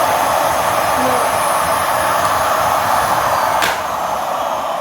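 Miele Classic C1 bagged canister vacuum cleaner running steadily. A click comes about three-quarters of the way in, and after it the vacuum runs a little quieter.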